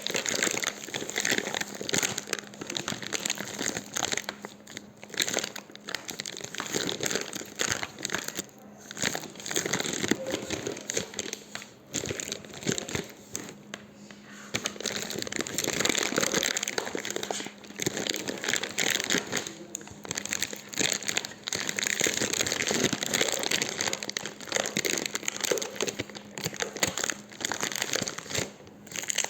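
Campfire burning, wood crackling and popping in a dense, irregular stream that swells and eases now and then.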